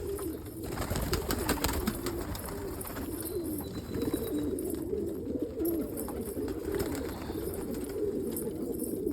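A flock of domestic pigeons cooing, many birds overlapping in a continuous low cooing chorus.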